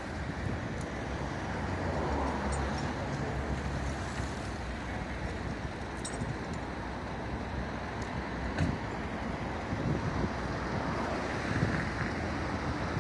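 Road traffic noise: vehicle engines and tyres passing, a steady low rumble with a few faint clicks.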